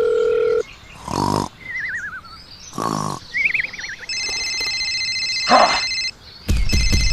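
A string of cartoon sound effects: a steady electronic beep that cuts off just after half a second in, two short grunting cries, each followed by a falling, warbling whistle, then a steady multi-tone electronic ringing from about four seconds in, which stops and starts again over a pulsing beat near the end.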